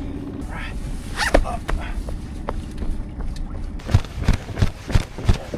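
Outboard motor idling, cutting off about half a second in. From about four seconds in, heavy footsteps thud about three a second.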